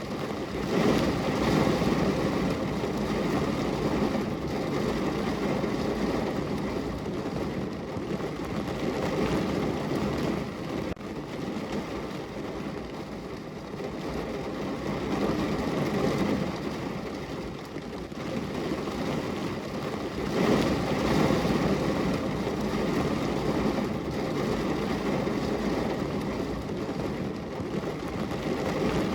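Heavy rain drumming on a car's roof and windows, heard from inside the cabin as a steady dense rumble that swells and eases in waves several times.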